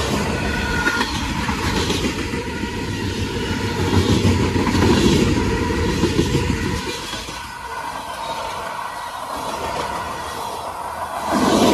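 Freight train cars rolling past close by: steel wheels rumbling and clicking along the rails. It gets louder about four seconds in and again near the end.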